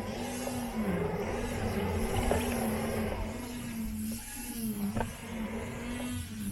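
Robot lawn mower running, heard from a camera taped onto its body: a steady motor hum that dips briefly in pitch now and then over a low rumble, with a sharp click about five seconds in.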